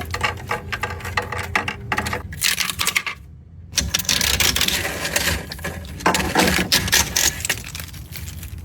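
Rapid clicking and clattering of small hard objects, with a brief break about three seconds in.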